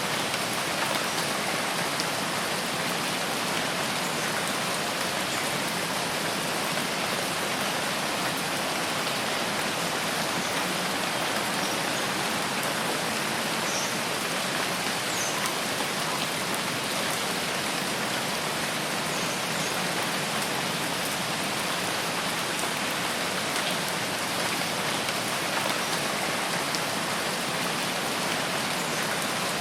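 Steady rain falling, a dense even patter of drops on surfaces with no let-up, with a few faint high chirps between about 12 and 17 seconds in.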